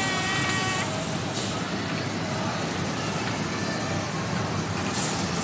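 Train horn cutting off about a second in, followed by the steady running noise of the moving train.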